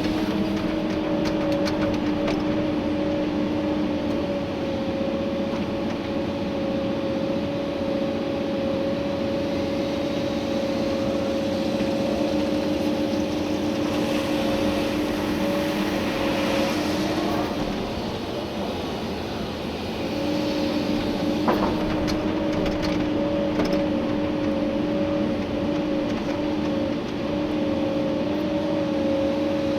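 Komatsu PC290-11 excavator's diesel engine and hydraulics working while digging gravel, heard from inside the cab: a steady whine over the engine that drops out for about two seconds a little past halfway and then comes back.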